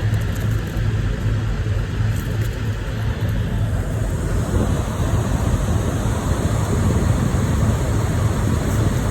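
Parked semi truck's diesel engine idling: a steady low rumble with a constant hum.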